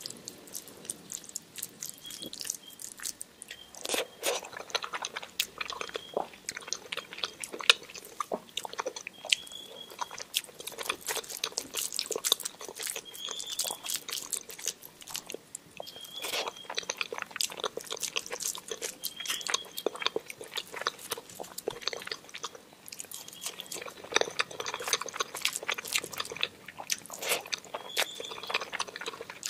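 Close-miked chewing with wet mouth clicks of a person eating rice and dal by hand, with fingers working the rice and dal on the plate.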